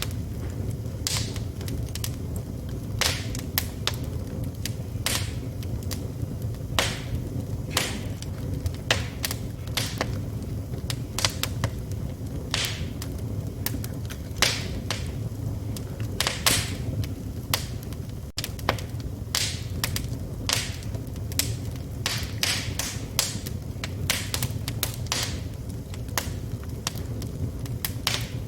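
Wood fire burning in a fireplace: a steady low rumble of flames with irregular sharp crackles and pops from the burning wood, several a second at times.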